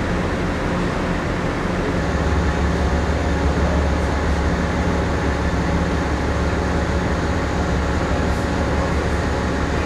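Steady low drone of a ship's onboard machinery, with a mix of hum and several steady low tones; the lowest part of the drone grows stronger about two seconds in and then holds.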